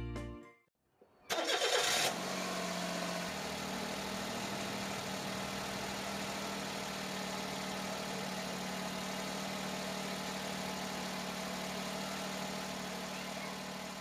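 Mazda AZ-Wagon's 660 cc kei-car engine being started: a brief burst of cranking about a second in as it catches, then steady idling with a low steady hum, fading out near the end.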